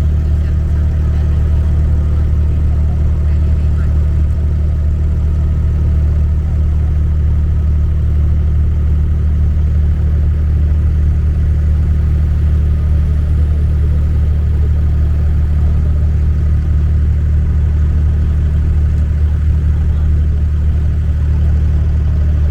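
Boat engine running steadily, a loud, even low drone that does not change.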